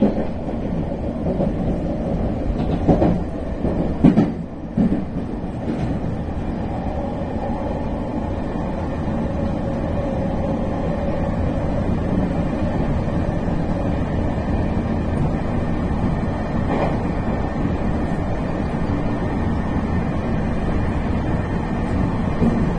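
Meitetsu electric train running at speed, heard from inside at the front of the cab: steady rumble of wheels on rail, with a few sharp clacks from the wheels over the track about three and four seconds in.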